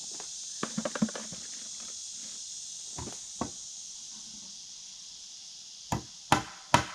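Hammer striking nails into a wooden post: a few light taps about a second in, two more around three seconds, then hard blows about every half second near the end. Crickets chirp steadily behind.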